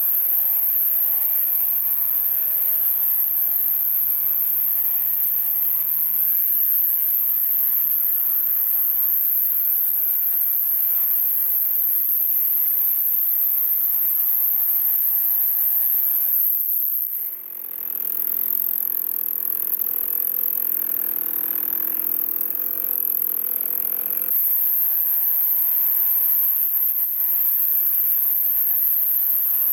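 Two-stroke chainsaw cutting through logs, its engine pitch wavering up and down as the chain loads in the wood. For several seconds past the middle the engine tone gives way to a rougher, hissing noise, then the steady engine note returns.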